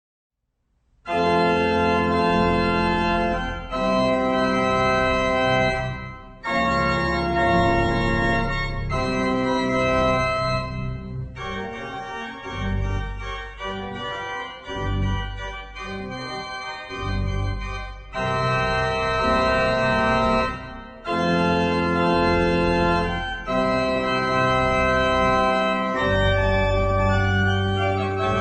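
Organ playing sustained full chords in phrases with short breaks, starting about a second in: a postlude closing the service.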